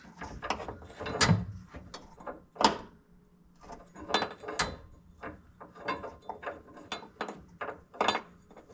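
Irregular metallic clicks and clanks of hand work on a VW Vanagon's shift linkage parts and tools, with the sharpest knocks about a second in and just under three seconds in.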